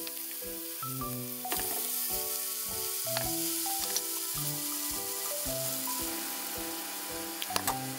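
Chicken thighs, potatoes and carrots frying in a nonstick pan. The steady sizzle grows louder about a second and a half in as the dashi-based seasoning liquid hits the hot pan. A few light knocks come near the end.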